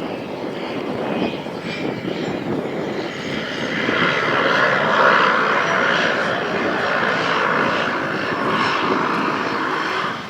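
Floatplane propeller engine running, growing louder about four seconds in and holding strong until it cuts off at the end.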